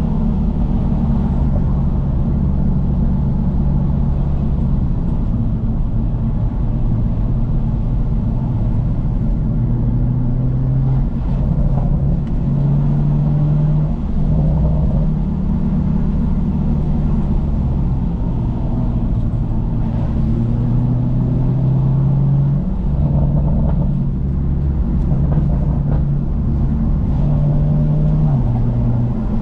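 BMW M2's turbocharged inline-six with a Remus aftermarket exhaust, running under way at a steady level. Its low drone shifts in pitch several times as engine speed changes.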